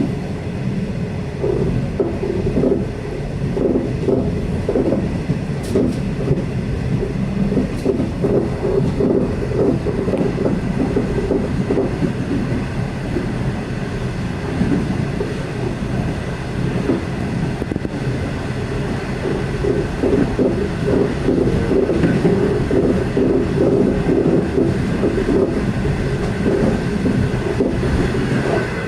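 V/Line loco-hauled passenger train running along the line: the steady, continuous rumble of the carriages' wheels on the track.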